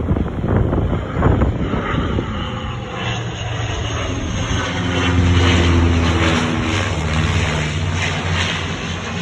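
Airplane engine passing by with a steady drone that grows louder to a peak about halfway through, then eases off. Wind buffets the microphone in the first couple of seconds.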